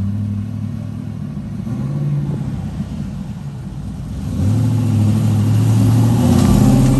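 Third-generation Chevrolet Camaro's V8 engine running as the car drives up the street toward the listener, getting louder from about four seconds in as it nears.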